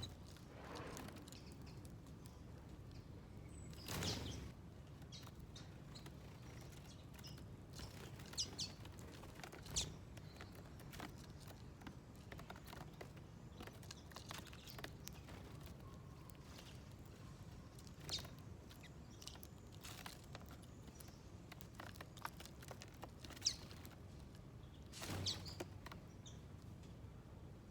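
Small birds at a garden feeder: scattered short, high chirps and light ticks over a faint steady background hum, with two brief louder rustles, one about four seconds in and one near the end.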